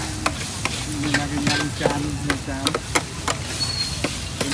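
Food frying and sizzling while being stirred, with irregular sharp knocks about twice a second.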